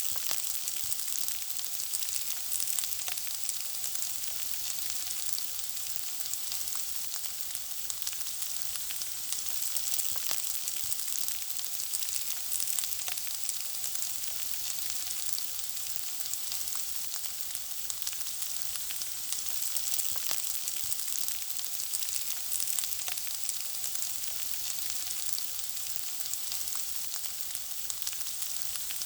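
Food frying: a steady high-pitched sizzle dotted with constant fine crackles and pops.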